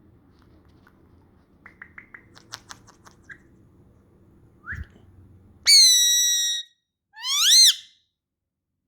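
An Indian ringneck parakeet whistling loudly, a held whistle of nearly a second followed by a shorter one that rises and falls, after a few soft clicks and a short rising chirp.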